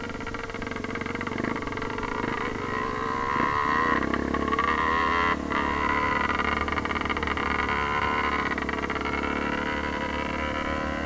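Vehicle engine running under way, picking up revs about two to four seconds in, with a brief drop near the middle before it carries on.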